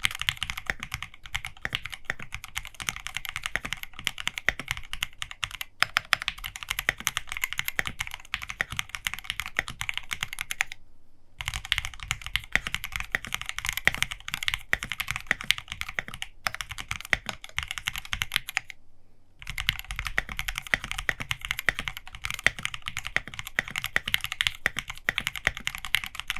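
Fast typing on a custom 65% mechanical keyboard with lubed Everglide Aqua King linear switches, PBT keycaps and lubed stabilizers. The keystrokes run in a dense, quick stream. It breaks off briefly about 11 seconds in and again about 19 seconds in.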